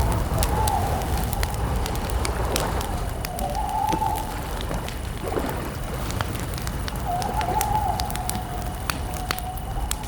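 Wood campfire crackling, with many sharp pops over a low rumble. A wavering, cooing call recurs a few times, each lasting about a second or two.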